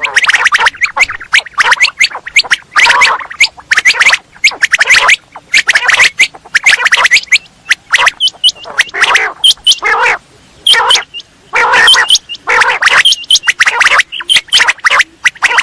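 Quail calling over and over: dense runs of short, harsh, rasping calls packed close together, with now and then a high clear whistled note.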